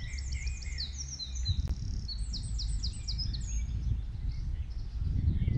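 Songbirds singing, several overlapping series of quick high chirps and short trills, over a steady low rumble.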